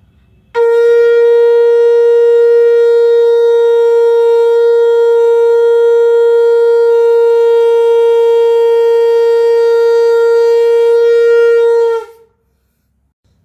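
Conch shell (shankh) blown in one long, steady note with a bright, buzzy ring, starting about half a second in and held for about eleven seconds before cutting off, its pitch dipping slightly as it ends.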